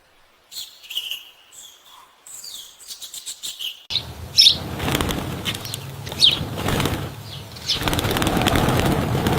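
Small birds chirping, then about four seconds in a sudden, dense flurry of wing flapping and rustling starts and carries on, with sharp, high, downward-slurred chip notes over it.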